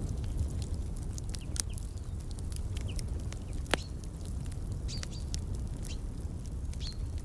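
Wood fire crackling, with many small sharp pops and one louder pop about halfway, over a steady low rumble. A few short bird chirps sound through it.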